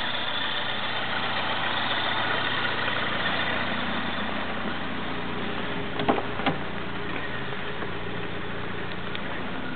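Opel Ascona's four-cylinder petrol engine idling steadily. Two short knocks come about six seconds in.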